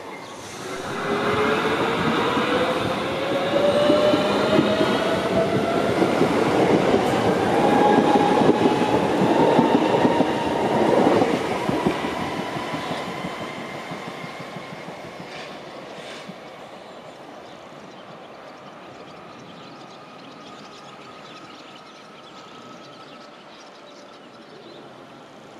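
Electric train pulling away. Its motor whine rises steadily in pitch for about ten seconds over the rumble of the wheels on the rails, then the sound fades as the train draws off.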